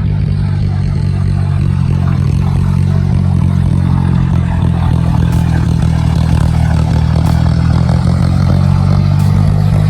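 John Deere 5055E tractor's diesel engine running steadily under load while cultivating a flooded, muddy field, with a slow slight rise in loudness.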